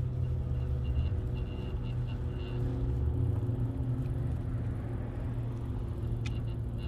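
Steady low rumble of road traffic, with short rows of faint high ticks early on and again near the end.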